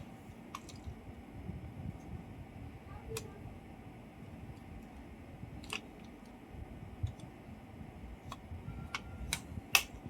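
Irregular sharp clicks, about eight or nine spread unevenly, the loudest near the end, over a low rumbling background.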